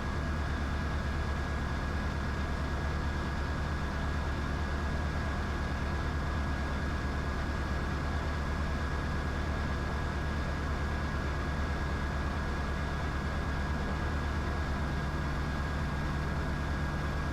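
Diamond DA20 light aircraft's piston engine and propeller running steadily, heard inside the cockpit as a constant low hum with a thin, steady high whine over it.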